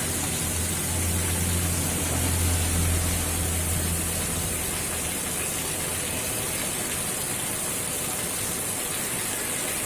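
Steady hiss of rain falling. A low hum underneath fades out about four seconds in.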